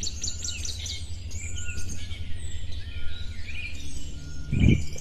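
Birds chirping and whistling in short, scattered calls over a steady low rumble, with a dull knock a little before the end.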